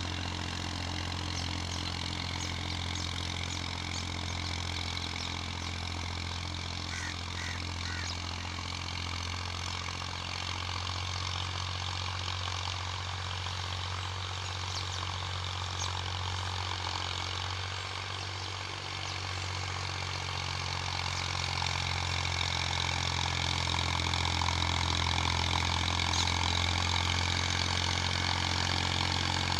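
Massey Ferguson 240 tractor's three-cylinder diesel engine running steadily, growing a little louder about two-thirds of the way through.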